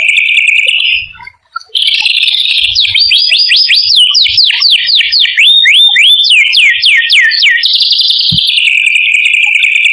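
Small songbird singing a fast, rolling song. A dense buzzy trill breaks off briefly about a second in. A rapid run of sharp down-sweeping notes follows, about four a second, then another dense trill.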